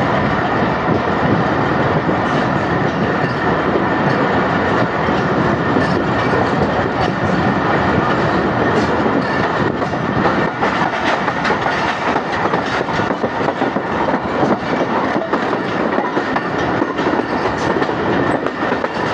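Passenger train coaches running along the track, heard from outside the coach side: a steady rumble of wheels on rails with a constant scatter of clickety-clack over rail joints.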